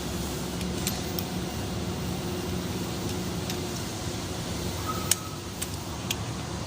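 Steady low mechanical hum with a few light, sharp clicks scattered through it.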